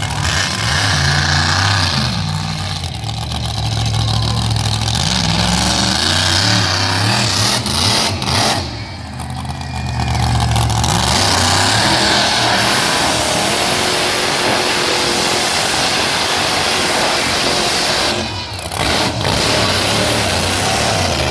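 Monster truck engine revving hard under load, its pitch rising and falling with the throttle, and briefly letting off twice, about nine and eighteen seconds in.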